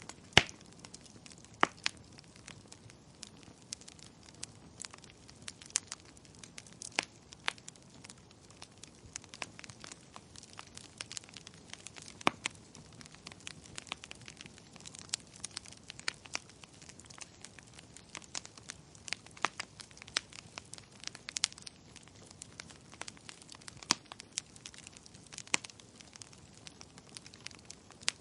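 Wood fire crackling in a fireplace, with irregular sharp pops and snaps over a soft hiss; the loudest pop comes right at the start.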